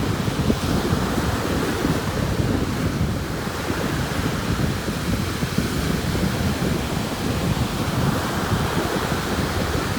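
Ocean surf washing in steadily, with wind buffeting the microphone in low, gusty rumbles.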